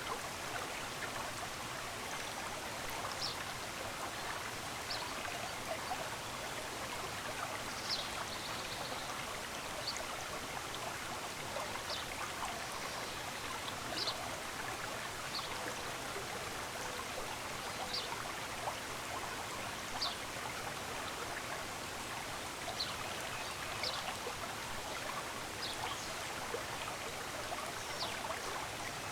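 Stream running steadily, with short, high bird chirps that drop quickly in pitch, coming one every second or two.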